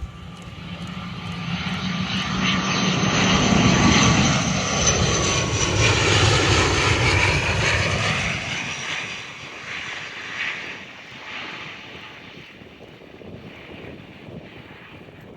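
A jet airliner on final approach passes low overhead. Its engine noise builds to a peak about four to eight seconds in, with the pitch sweeping down as it goes by, then fades away.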